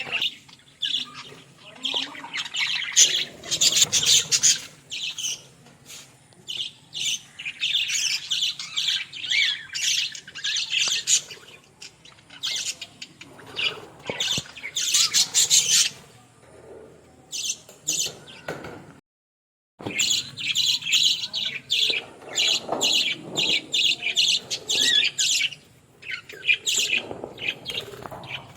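Several budgerigars chattering, a dense run of short, overlapping high chirps and squawks. The sound drops out completely for under a second about two-thirds of the way through.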